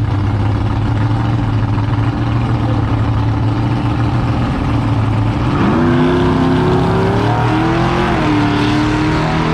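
A car engine idling steadily, then about five and a half seconds in it revs up and accelerates, its pitch rising in steps.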